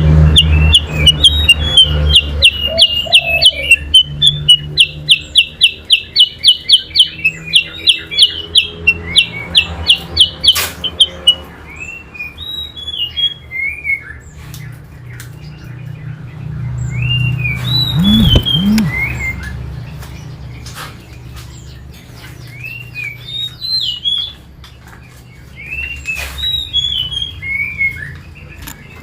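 Kutilang sutra and kacer (oriental magpie-robin) singing against each other. For about the first ten seconds there is a loud, rapid run of repeated sharp notes, about three or four a second. After that come scattered short whistled notes that slide down in pitch, over a low hum.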